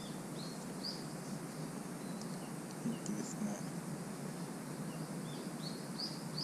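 Outdoor forest ambience: a small bird gives short high chirps, a couple about half a second in, then a quick run of them near the end, over a steady low hiss of background noise.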